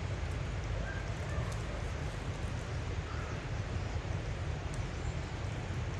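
Outdoor ambience: a steady, even noise with a strong low rumble and no distinct events.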